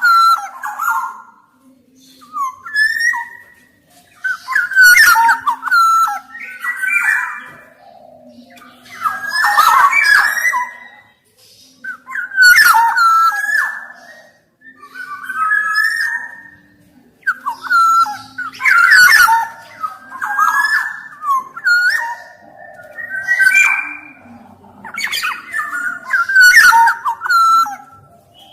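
Black-naped oriole (kepodang) singing: loud, fluting whistled phrases with gliding notes, repeated every two to three seconds with short pauses between.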